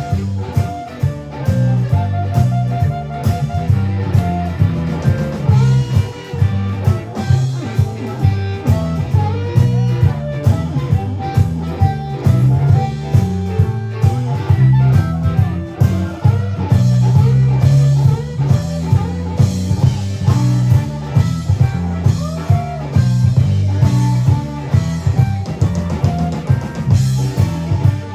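A live blues band playing an instrumental passage: electric guitar over bass and a drum kit keeping a steady beat.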